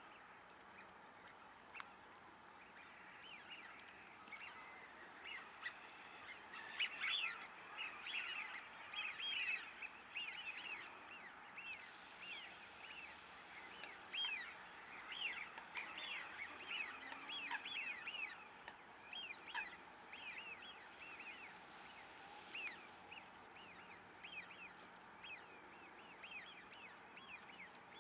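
Many birds calling: short, high notes repeated in quick chattering runs, busiest through the middle, over a faint steady background hiss.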